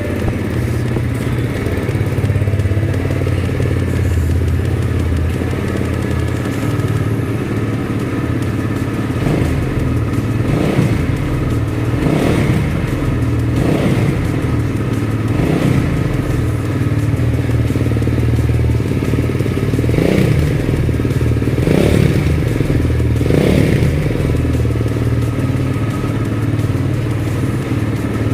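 Vento Alpina 300cc motorcycle's exhaust running steadily at idle. From about nine seconds in, a series of short throttle blips comes every second or two.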